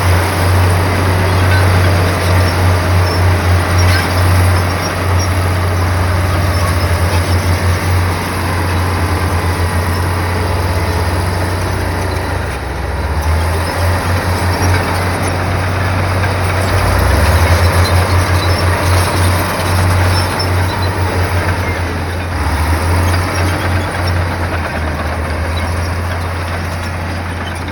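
Komatsu bulldozer's diesel engine running under load: a loud, deep drone that throbs and swells and eases repeatedly, over a dense, steady noise of the machine at work.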